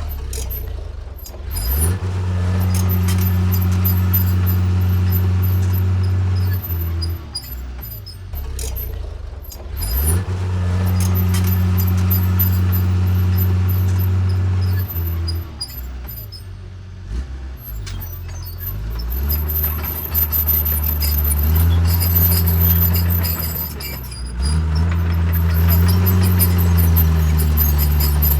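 Caterpillar D3C bulldozer's diesel engine working: it runs loud and steady for spells of several seconds, drops back in between, and comes up again four times.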